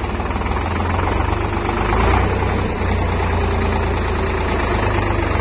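Heavy diesel engine running steadily at low revs, swelling slightly about two seconds in.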